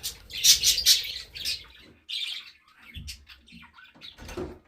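Pet budgerigars chirping and chattering in quick, high-pitched chirps. The chirps come thickly for the first second and a half, then more sparsely.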